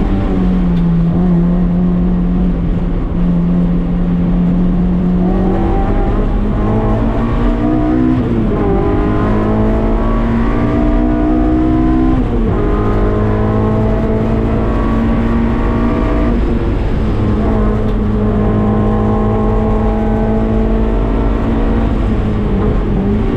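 Honda K24 four-cylinder engine in a race-prepared Mazda MX-5 Miata running at speed on track. It holds a steady note for the first few seconds, then revs up and drops sharply at upshifts about eight and twelve seconds in, before running on at a fairly even pitch.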